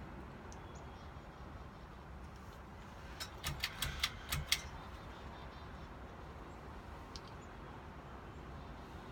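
Hampton Bay San Marino ceiling fan running with a steady, faint low hum and air noise. A little past three seconds in comes a quick run of about eight sharp clicks over a second and a half.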